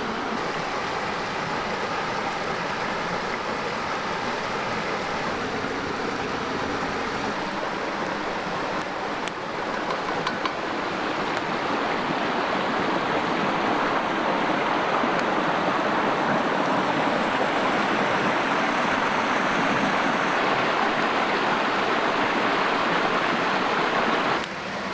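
A creek running steadily, getting a little louder partway through, with a few faint clicks.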